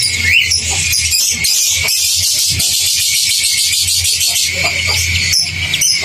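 Dense, high-pitched chattering of cage birds, many small calls overlapping, with a steady low hum underneath.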